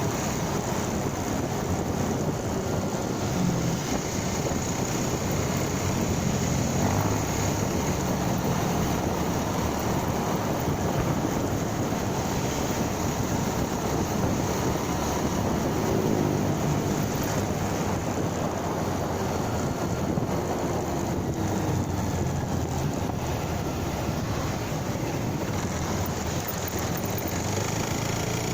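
Motorcycle being ridden, its engine and road noise running steadily under wind rushing over the microphone.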